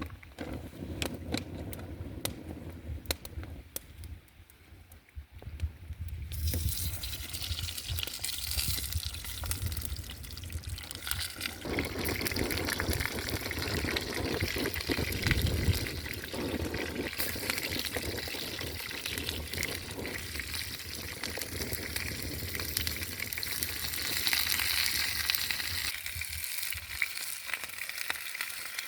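Food frying in a hot pan: after a few seconds of light clicks and knocks, a steady sizzling hiss starts suddenly about six seconds in and carries on.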